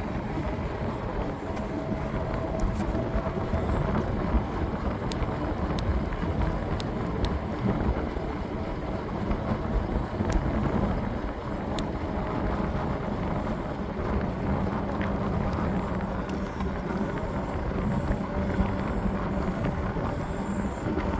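Wind rushing over the microphone during a bike ride, with steady low road rumble and a few sharp clicks.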